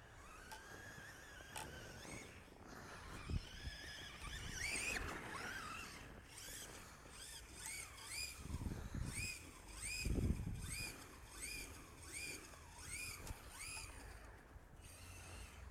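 Brushless electric motor of a 2WD Traxxas Rustler RC truck (Castle Sidewinder SV3 controller, 3800kV motor) whining up and down in pitch. In the second half it comes as a quick run of short throttle bursts, about one and a half a second, with a few dull thumps along the way.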